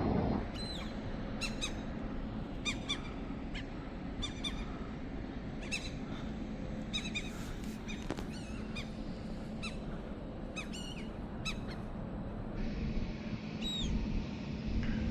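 Repeated short, high squeaks that fall in pitch, singly or in pairs about every second, over a steady low hum from works machinery running.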